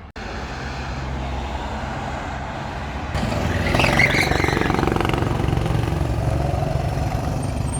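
A road vehicle's engine running steadily, growing louder with a wide rushing noise about three seconds in.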